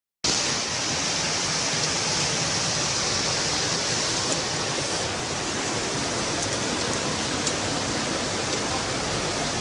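Steady hiss of a heavy downpour mixed with the rush of a flooding river.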